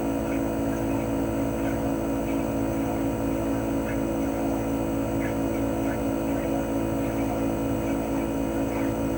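CHOFU AE-2844PX mini-split outdoor unit running steadily in cooling mode: the hum of its GMCC KSK89D53UEZC single-rotary inverter compressor, made of several steady tones, under the even rush of its propeller fan.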